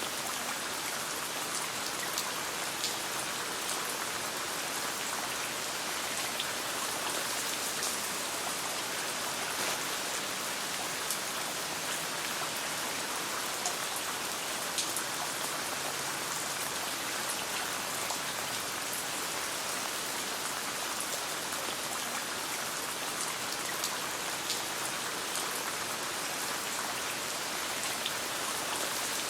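Steady rain falling, a dense even hiss, with scattered sharp ticks and small pops throughout.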